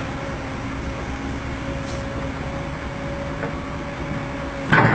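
Heavy diesel machinery engine running steadily, with a faint steady whine over it. A short, loud noise cuts in near the end.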